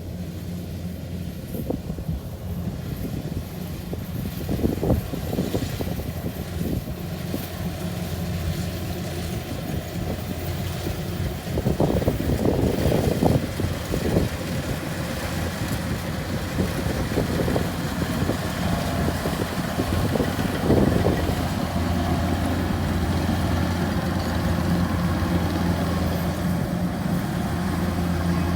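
The engine of a farm machine running steadily at a low hum, with louder bursts of mechanical clatter about 12 and 21 seconds in.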